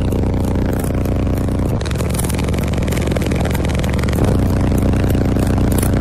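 High-powered car audio system with six 12-inch subwoofers in a bandpass enclosure, playing very deep bass-heavy music at high volume. It runs steadily, with a rougher, wider passage between about two and four seconds in.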